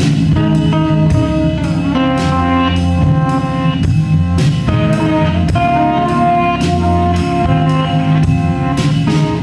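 Live rock band playing an instrumental passage: electric guitars and bass holding sustained notes over a drum kit keeping a steady beat of about two strokes a second.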